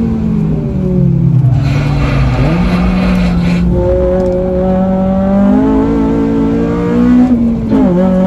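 Modified FN2 Honda Civic Type R engine on track: revs fall under braking, jump up sharply on the downshift to second about two and a half seconds in, then climb as the car pulls out of the corner, with a sudden drop near the end on the upshift.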